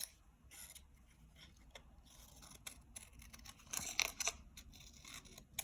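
Scissors cutting paper in short snips, with light rustling of the sheet, the snips loudest about four seconds in.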